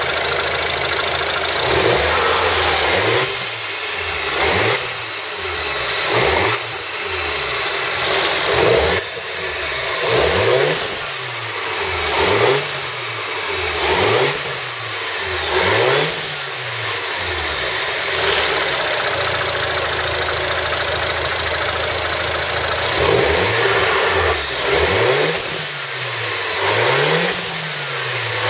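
Turbocharged four-cylinder engine of a BMW MINI Cooper S (R56), fitted with an open cone-filter intake, being revved in a series of quick throttle blips. Each blip rises and falls back, about one every second and a half. It settles to a steadier run for a few seconds, then is blipped again several times near the end.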